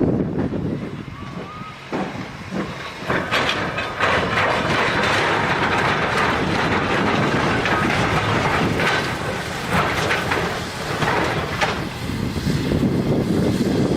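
A train running along the rails: a steady rushing noise with the clack of the wheels, louder from about three seconds in.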